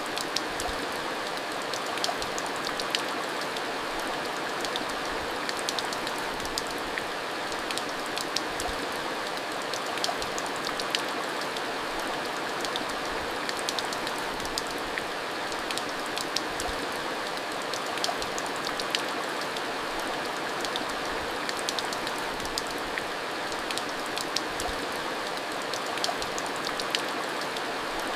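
Steady rain falling, an even hiss with many individual drops pattering and ticking on hard surfaces.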